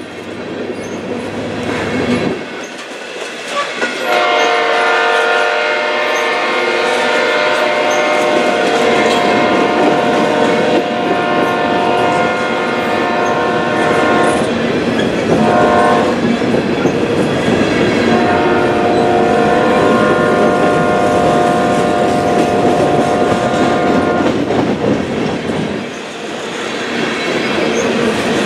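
Empty coal hopper cars rolling past with a steady clatter of wheels over the rails. Over it a multi-note locomotive air horn sounds one long blast of about ten seconds, a short toot, then another long blast.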